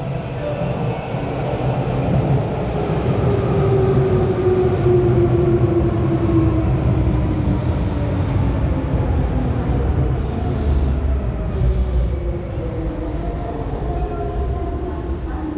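Hanshin 5000 series electric commuter train pulling into the station past the platform, its running whine sliding slowly down in pitch as it slows, over rumble and wheel-on-rail noise. A few short hisses sound around the middle.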